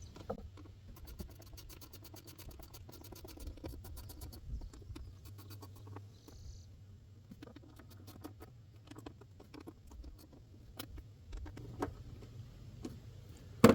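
Faint runs of quick light clicks and scratching from hand tools working the throttle body's bolts, a ratchet wrench ticking, with one sharper click near the end.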